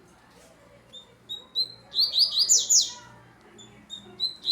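Double-collared seedeater (coleiro) singing: a few short, high chirps, then about a second of rapid, loud sweeping notes, then more single chirps.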